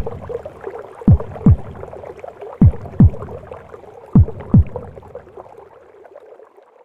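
A mother's heartbeat as heard inside the womb: paired low thumps, lub-dub, about every second and a half, over a whooshing hiss. After the fourth beat, about two-thirds of the way in, the beats stop and the hiss fades away.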